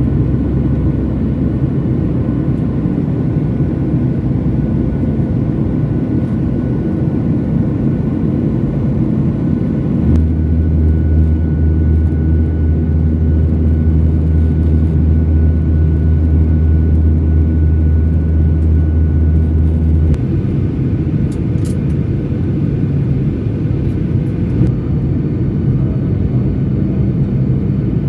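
Steady jet engine and airflow noise inside an airliner cabin, heavy in the low end. A deeper, louder band comes in abruptly about ten seconds in and drops away about twenty seconds in.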